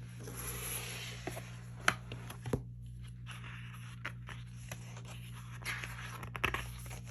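Hands handling a boxed album's paper and cardboard packaging: soft rustling and scraping, with a few sharp taps a couple of seconds in, over a steady electrical hum.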